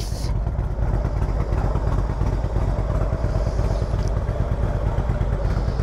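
Motorcycle engine running steadily while riding, under a heavy low rumble of wind on the microphone.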